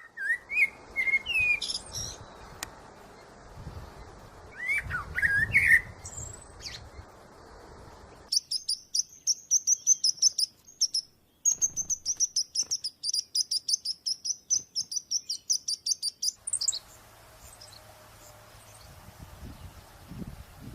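Birds chirping and calling, in three pieces that cut off abruptly: first sliding whistled calls over a background hiss, then a fast run of high, sharp chirps several times a second, then faint calls over a low steady hum.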